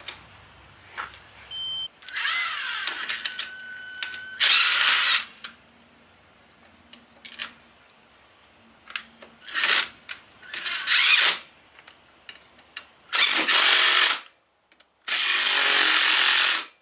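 Handheld power tool, drill-driver type, run in about six short bursts of half a second to a second and a half each, with pauses between; the last burst is the longest.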